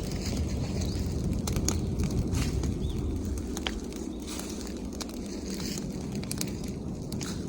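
Bonfire of branches and leaves burning, with scattered sharp crackles and snaps over a steady low rumble.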